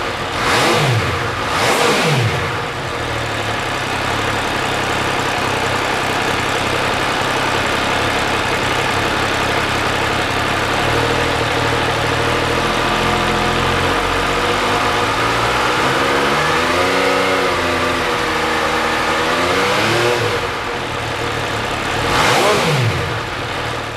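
MV Agusta Dragster 800 RR's three-cylinder engine running hard, with quick rises and falls in engine speed near the start and again near the end, and a steady drone in between that wavers up and down in pitch for a few seconds.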